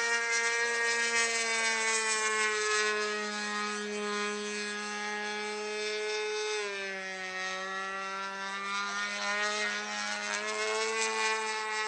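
Gas engine of an RC model airplane with ignition, running steadily in flight as the plane flies a loop. Its pitch drops about six and a half seconds in and climbs back a few seconds later.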